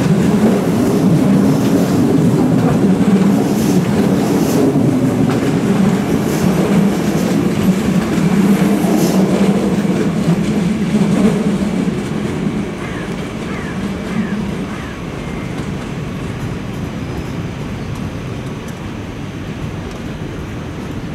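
Electric trains rolling slowly over the station points: a steady rumble with occasional clacks of wheels over rail joints, dropping to a quieter, more distant rolling sound about twelve seconds in.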